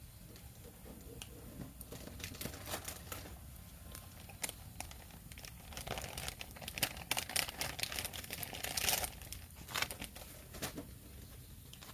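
Packaging being handled: irregular crinkling and tearing sounds that come thicker and louder in the middle, then thin out near the end.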